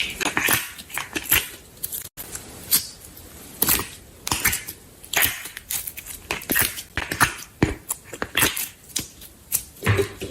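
Slime being squished and pressed by hand, a run of irregular short wet pops and clicks.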